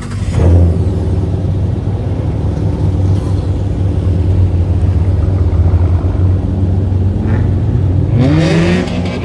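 Car engine running loud, coming in with a surge about half a second in and holding a steady drone, then revving up in rising pitch near the end.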